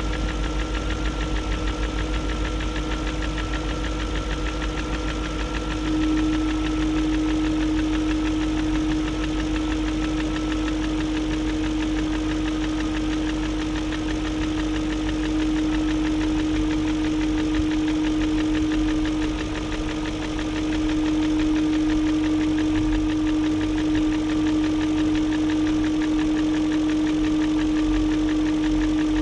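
BMW 740i's M62 4.4-litre V8 idling steadily with a light tick that new timing chain guides have not cured. The owner wonders whether a failing VANOS unit is behind it. A steady hum sits over the idle and grows louder about six seconds in.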